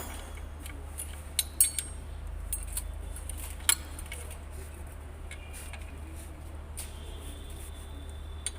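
Metal hand tools clinking: a few sharp, separate clinks of spanners and sockets being handled and set against the engine, the loudest about one and a half seconds and three and a half seconds in. A steady low hum runs underneath.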